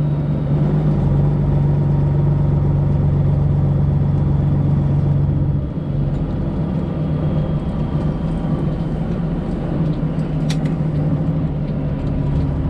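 Detroit Diesel 12.7-litre Series 60 engine of a semi truck running steadily at low revs. The engine note dips briefly about six seconds in, and a single sharp click sounds a little after ten seconds.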